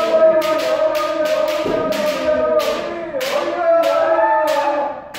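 Several kendo practitioners shouting long, held kiai that overlap one another. Rapid sharp cracks of shinai strikes and foot stamps come every fraction of a second.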